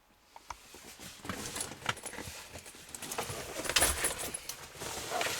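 Rustling and irregular knocks and clicks of someone shifting about in a car's back seat, with clothing and handheld-camera handling noise.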